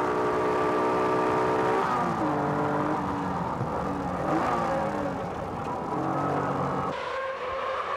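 Honda NSX V6 engine heard from inside the cockpit at racing speed. It holds high revs, then falls in pitch about two seconds in as the driver comes off the throttle for a corner, and rises and falls again through the corners that follow.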